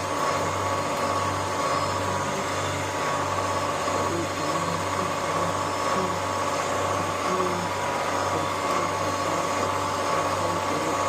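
Self-serve car wash equipment running: a steady low machine hum that pulses about twice a second, with a steady higher whine above it.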